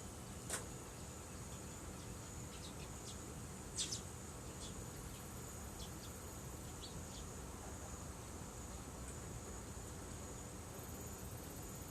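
Steady high-pitched insect chirring, with a wood bonfire crackling over it: a sharp pop about half a second in, a louder double pop near four seconds, and a few lighter snaps in between and after.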